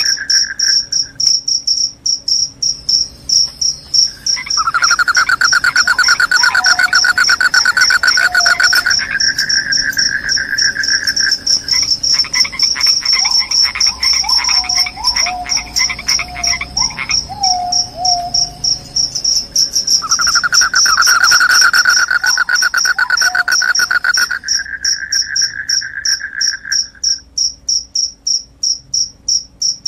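Crickets chirping: a steady high-pitched trill runs on, while a lower, louder trill starts and stops several times. Short falling calls also sound now and then through the middle.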